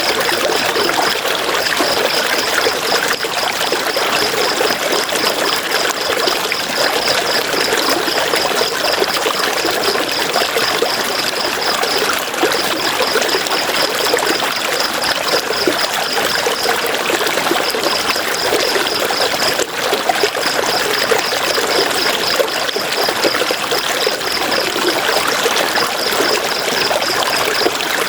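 River water running and splashing over rocks, a steady rushing sound. A high, rapidly pulsing chirr at one pitch runs over it, breaking off briefly a few times.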